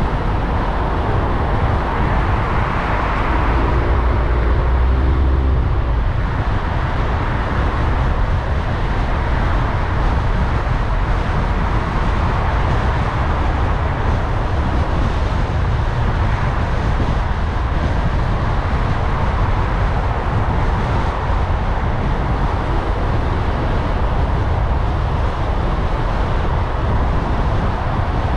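Car driving through city traffic: a steady rumble of engine and tyres on the road. About four seconds in, a louder low rumble with a faint hum swells briefly and fades.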